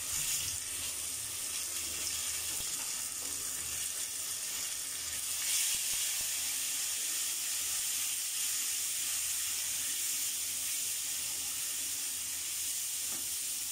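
Sliced onions, garlic paste and ground spices sizzling in hot oil in a wok as they are stirred: a steady high hiss, briefly louder about five seconds in. This is the masala being fried down (koshano) for a fish curry.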